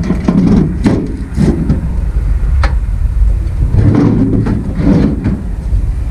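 A series of knocks and clunks as objects are handled and set down to prop up the unit, over a steady low rumble.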